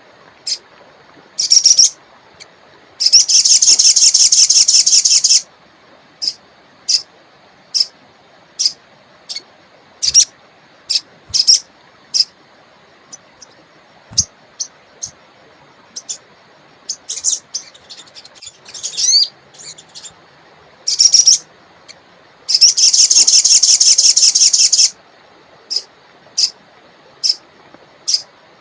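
A small songbird calling: short sharp high chips every second or so, and two loud rapid trills lasting about two seconds each, one a few seconds in and one near the end. A faint steady rush of flowing water runs beneath.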